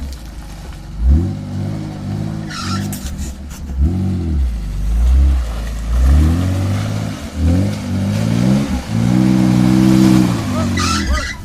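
Off-road 4x4's engine revved up and down in a string of bursts, the driver trying to power out with the back left wheel stuck in a rut; the longest rev is held briefly near the end.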